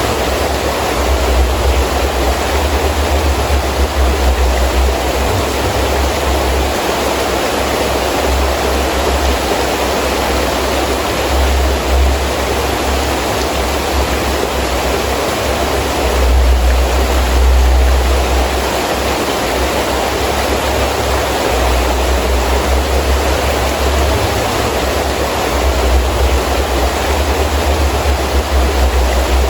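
Heavy rain pouring down steadily in strong wind, a dense even hiss, with deep gusts rumbling low that swell and fade, strongest around halfway through.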